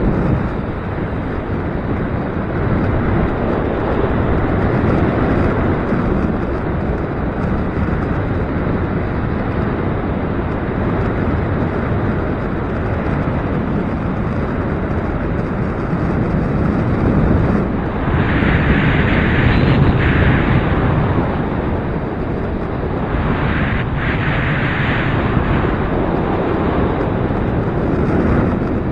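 Gusty wind buffeting the microphone: a loud, rumbling rush that swells and eases without a break. Twice, about two-thirds of the way in, a brighter hiss rises over it for a second or two.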